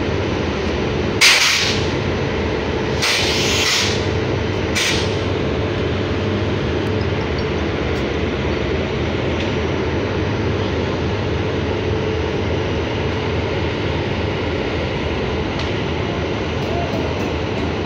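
Indian Railways LHB train's luggage-brake and generator car running with a steady low rumble and hum as the train slowly pulls out. Three short, sharp hisses of compressed air come in the first five seconds.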